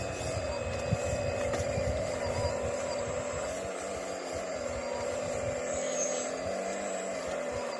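Diesel engine of a heavy earthmoving machine running at a steady pitch, with irregular low rumbles over the first few seconds.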